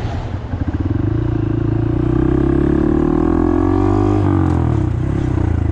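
Honda Monkey motorcycle's single-cylinder engine under acceleration, its pitch rising steadily for a few seconds, then falling sharply about four seconds in and running on steadily.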